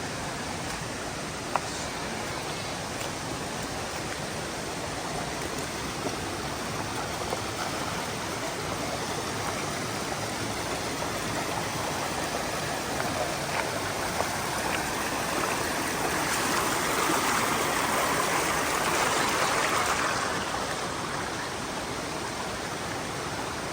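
Mountain stream rushing steadily over rocks, its noise swelling louder for a few seconds about two-thirds of the way through.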